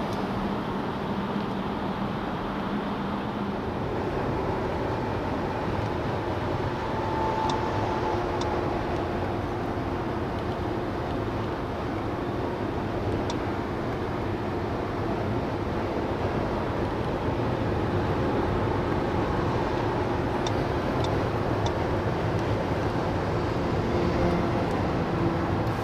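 Steady road and wind rush of a 2021 Mercedes-Benz S580 cruising at autobahn speed, with a faint low drone underneath and a few faint ticks.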